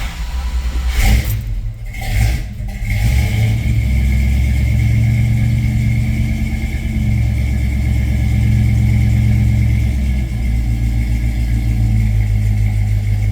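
1973 International Harvester Scout II engine cold-starting on a manual choke: it cranks and catches about a second in, then runs steadily at fast idle with a low, even rumble, its speed shifting a little partway through.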